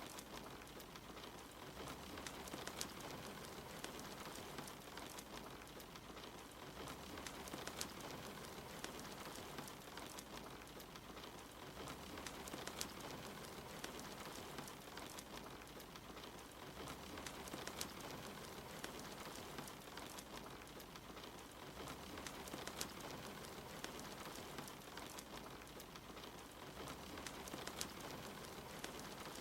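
Steady rain hiss mixed with a crackling wood fire: an even wash of rain with scattered sharp pops and snaps throughout.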